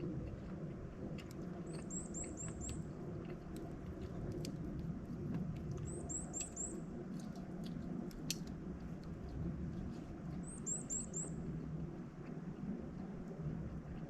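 Wood fire burning in a fire stand, with scattered sharp crackles over a steady low rumble. A small bird calls a quick run of four high chirps, repeated about every four seconds.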